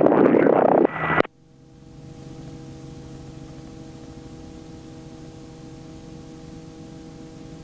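Robinson R44 helicopter heard through the headset intercom: a loud, distorted rush of noise cuts off abruptly about a second in, leaving a steady hum with several steady tones.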